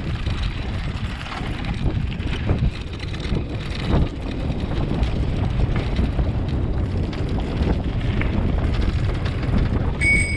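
Wind buffeting the microphone with a steady low rumble, as on a moving bicycle. A brief high-pitched ring sounds just before the end.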